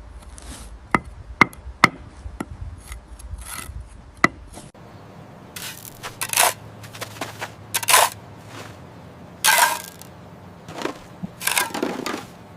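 Small hand tools working on building materials: a few sharp taps and clicks, then, after a break about five seconds in, a run of short scraping strokes, each under a second.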